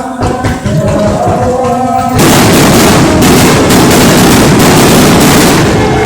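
Aerial fireworks going off: a few booms over music, then about two seconds in a dense, loud barrage of rapid bangs and crackling that covers the music.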